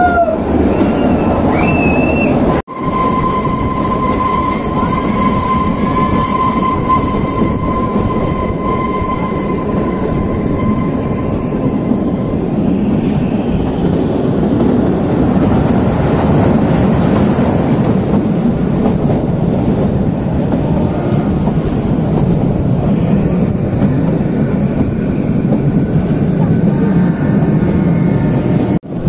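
Narrow-gauge Kalka–Shimla toy train running, heard from inside a carriage: a steady rumble of wheels on the track. From a few seconds in until about twelve seconds, a high, steady wheel squeal rides over it.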